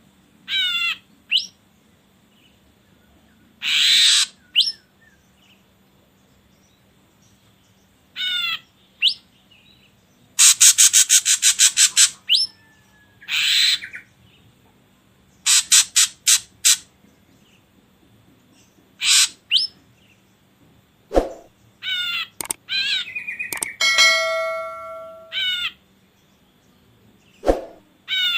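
Ashy drongo calling in short, varied phrases with pauses between them: runs of falling notes, rasping calls, a long rapid trill and falling whistles.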